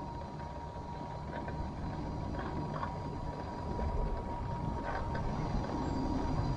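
Scooter riding along a street: a steady low rumble of motor and tyres with a thin, steady whine, slowly growing louder, and a few faint ticks.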